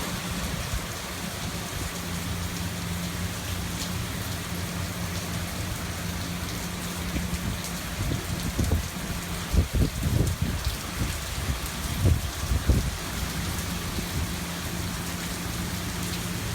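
Hurricane rain falling steadily and water dripping off the house, with strong wind gusts rumbling over the microphone several times in the middle of the stretch.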